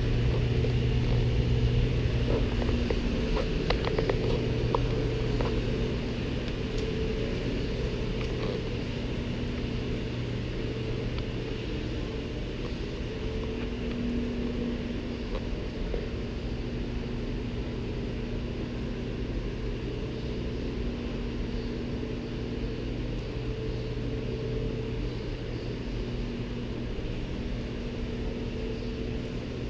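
Steady mechanical hum with a low, unchanging tone, a little louder in the first few seconds, with a few faint clicks.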